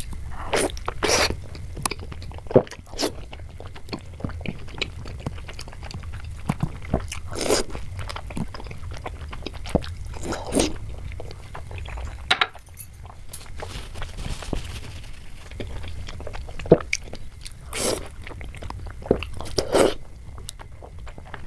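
Close-up mouth sounds of biting into and chewing soft, syrup-soaked yellow rosogulla: wet smacks and squishes at irregular intervals, a few louder than the rest.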